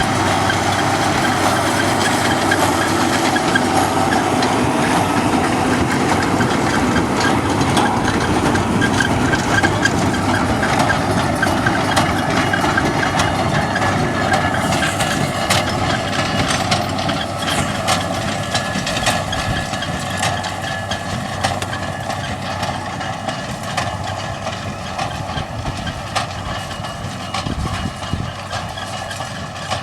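An engine running steadily, with short clicks and rattles over it, growing gradually quieter.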